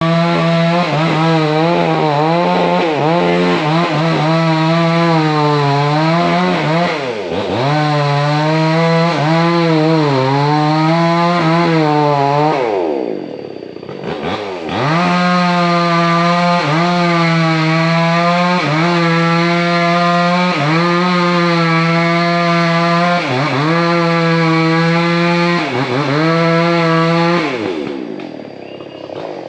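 Two-stroke chainsaw at full throttle cutting into a large sengon trunk, its engine note sagging under load and recovering about once a second. The throttle is let off twice: briefly about seven seconds in, and for about two seconds around the middle, when it drops toward idle and revs back up. It falls to idle near the end.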